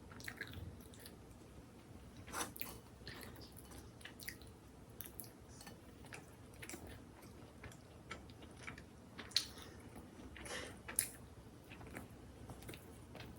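A person chewing and biting food close to the microphone: irregular short clicks and crunches, with two sharper ones about nine and eleven seconds in.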